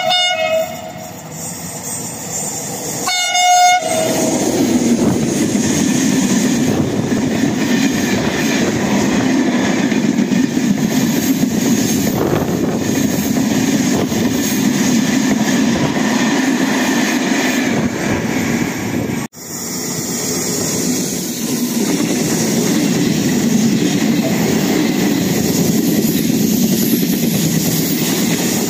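A freight train's horn sounds twice, once right at the start and again about three seconds in. Then the train rumbles and clatters past along the platform, its string of flat wagons rolling over the rails. About two-thirds of the way through the sound cuts abruptly to another train, a regional passenger train's coaches rolling past.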